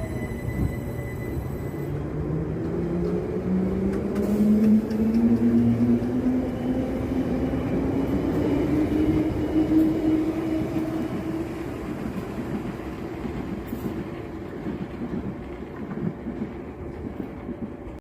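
Electric train pulling away, its traction motors giving a whine that climbs steadily in pitch over about ten seconds above a rumble of wheels on rail. The sound is loudest in the middle and fades near the end as the train leaves.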